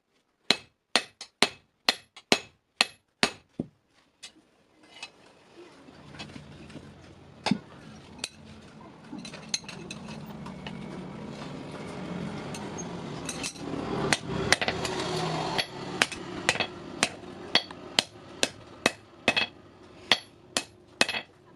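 Hammer striking steel on an anvil while forging a hasua blade: sharp, ringing blows about two to three a second. About four seconds in the blows thin out while a steady background noise rises, and near the end they return to a regular rhythm.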